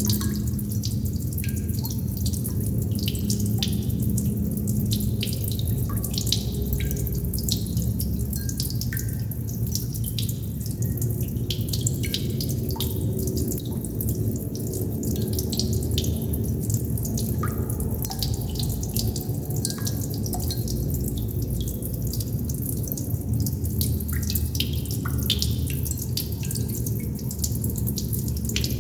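Water droplets falling and dripping irregularly, many small plinks and taps a second, over a steady low hum.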